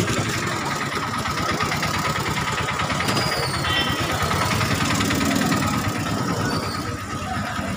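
Motorcycle engines idling close by, a steady low running, over the general noise of a busy street crowd.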